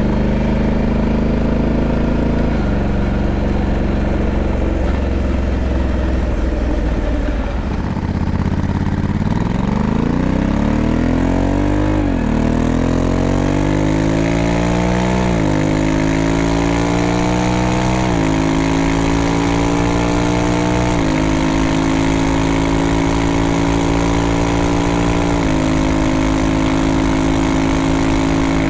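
Honda Africa Twin 1100 parallel-twin engine under way: it runs steadily, eases off about eight seconds in, then accelerates through the gears, its pitch climbing and dropping sharply at each of five upshifts. Wind rush builds as the speed rises.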